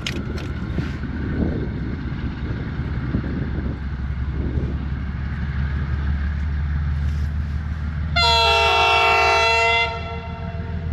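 Freight train rumbling low and steady, and about eight seconds in a locomotive horn sounds one blast of under two seconds, a chord of several tones.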